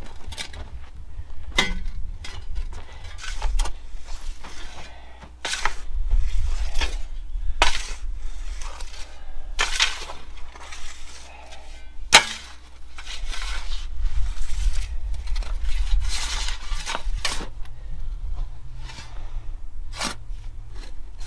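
Steel shovels scraping and striking stony dirt as soil is spread and flattened, with irregular sharp clinks and scrapes.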